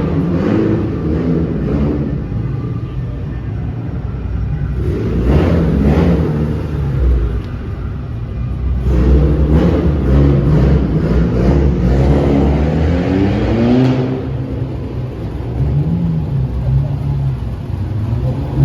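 Car engine revving in several spells, its pitch rising and falling, the longest spell lasting a few seconds around the middle, over a steady low rumble.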